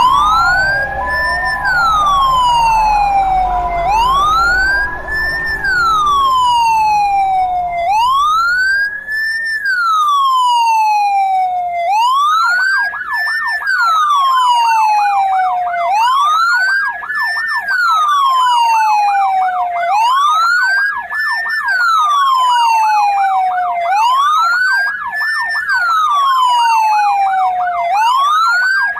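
Ambulance siren wailing, its pitch rising and falling about every four seconds; from about twelve seconds in, a second, fast warbling siren tone sounds alongside the wail. A low rumble underneath fades out in the first third.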